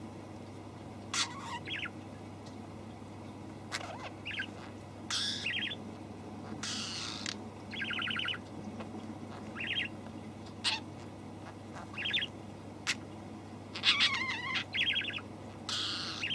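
Young bird chirping in short, rapid trilled calls, scattered at irregular intervals, with several brief hissing noises in between.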